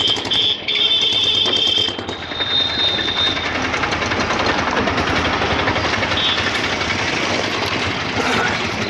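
Passenger train running at speed, its steel wheels clattering rapidly over the rails, with a high squeal during the first two seconds.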